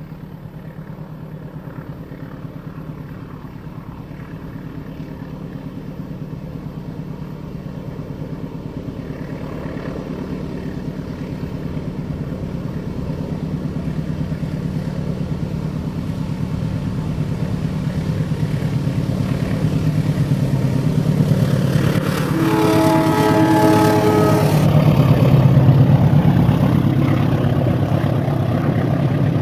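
Diesel locomotive of a passenger train approaching, its engine drone growing steadily louder; about 23 seconds in it sounds a multi-tone horn for about two seconds, and then the train passes loudly.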